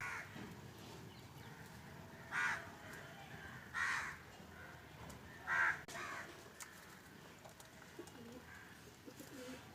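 Pigeons calling: a few short, separate calls a second or so apart, then softer low coos near the end.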